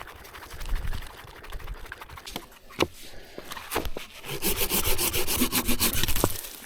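Wood being cut by hand: a few scattered knocks, then about two seconds of quick, rhythmic rasping strokes near the end.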